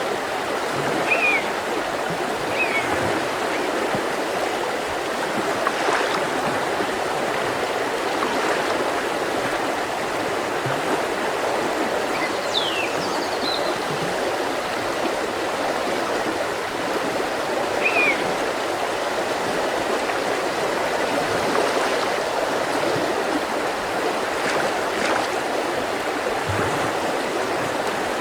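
A mountain river flowing over stones, a steady rushing. A few short bird chirps sound over it, about a second in, again near 3 s, a pair of downward-sliding notes near 13 s and one more near 18 s.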